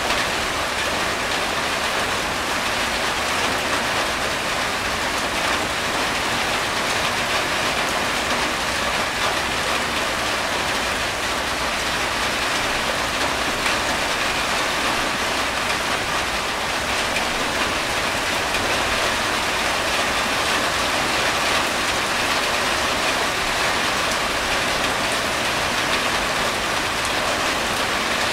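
Steady rain falling on a corrugated tin roof, an even, unbroken patter.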